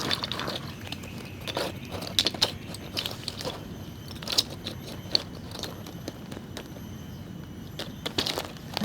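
Irregular crackles and rustles of forest-floor litter being handled and disturbed, a quick scatter of short, sharp clicks.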